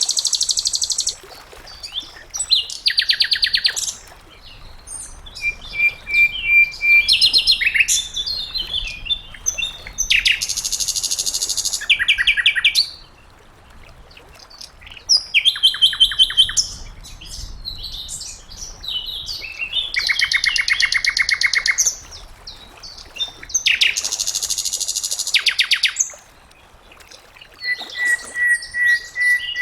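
Sikatan londo flycatcher singing: a series of fast, high trills and chattering phrases, each lasting a second or two with short pauses between, and a few held whistled notes.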